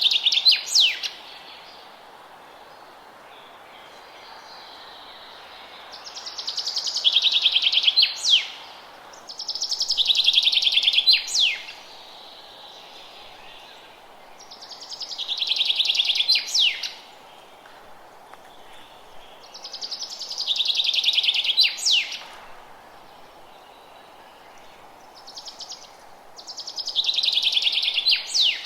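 A songbird singing the same song over and over, about every five seconds: a fast trill that grows louder, ending in a few sharp, high notes. A steady hiss continues underneath.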